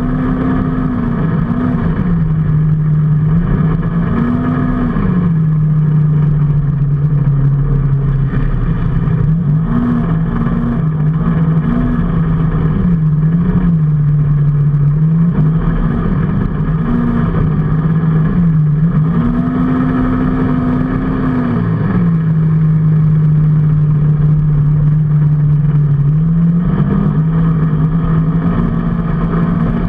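A vehicle engine running under way, its pitch rising and falling many times as it speeds up and eases off.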